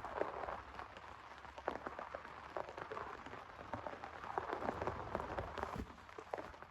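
Heavy rain falling, with many individual drops striking a surface close by as sharp ticks over a steady hiss of rain.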